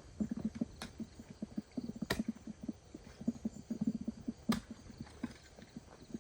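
Three sharp knocks at irregular intervals of one to two and a half seconds, over a run of soft low taps and scuffs.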